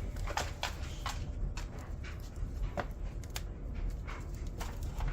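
Wood fire crackling in a wood stove, kindling and small sticks popping with irregular sharp snaps over a low steady rumble as the fire catches.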